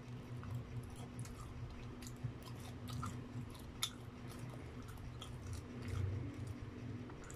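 Close-miked chewing of a bite of fried Spam: soft wet mouth clicks and smacks at an uneven pace, over a steady low hum.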